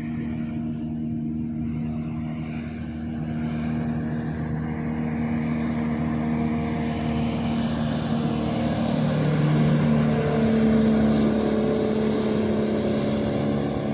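A fast motorboat's engine running as the boat goes by on the river, a steady hum that grows louder and peaks about two-thirds of the way in.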